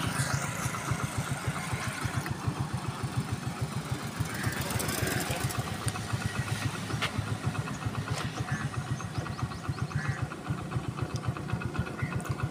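Motorcycle engine idling steadily, an even putter of about ten beats a second.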